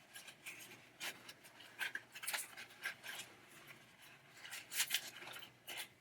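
A naphtha-dampened towel wiping and rubbing a pinball coil bracket, in short irregular scuffing strokes.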